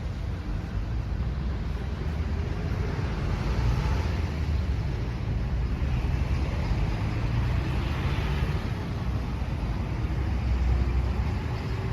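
A 2019 Yamaha YZF-R25's 249 cc parallel-twin engine running steadily at low revs, with slight swells in level near the middle and again near the end.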